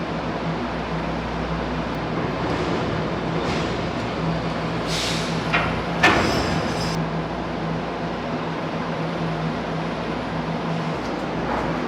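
Steady machinery hum and noise of a large car ferry, with a brief hiss about five seconds in and a sharp metallic clank about six seconds in.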